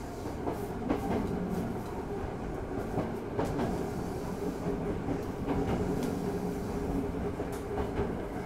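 Hankyu 8000-series 8040-type electric train under way, heard from inside the car near the bogie: steady wheel-on-rail running noise with traction-drive tones and a few short clicks.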